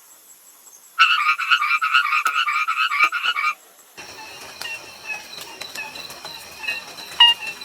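An animal's rapid, pulsed rattling call, about eight pulses a second, starting about a second in and stopping near the middle. It is followed by a fainter stretch of background noise with scattered high squeaky chirps.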